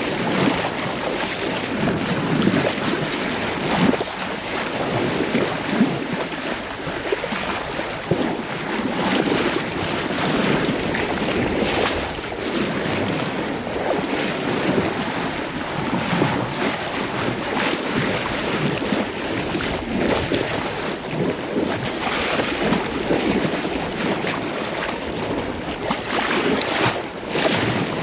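Sea water rushing and splashing along a sailboat's hull under way, in uneven surges, with wind buffeting the microphone.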